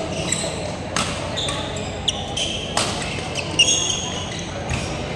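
Badminton doubles rally on an indoor court: sharp racket strikes on the shuttlecock every second or two, with sneakers squeaking on the court floor in between.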